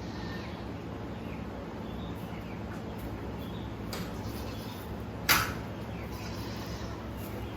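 Steady low background hum with one sharp knock or clatter about five seconds in, and a fainter click a second before it.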